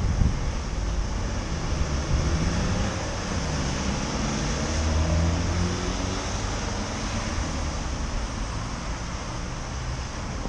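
Road traffic heard from a moving bicycle: a motor vehicle's engine hum rises and passes over several seconds in the middle, above a steady low wind rumble on the microphone and a constant high hiss.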